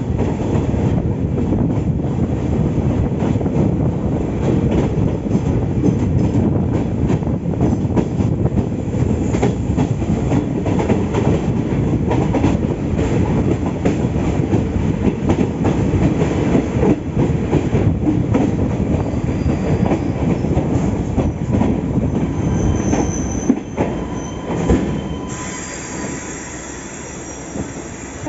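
Passenger train running along the track, a loud steady rumble with rapid clicks and clatter from the wheels. About 24 seconds in the rumble drops and a thin, high wheel squeal sets in until near the end.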